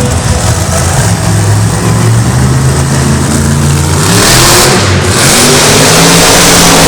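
Monster truck engine revving loudly, its pitch shifting up and down; about four seconds in it gets louder and harsher as the throttle opens further.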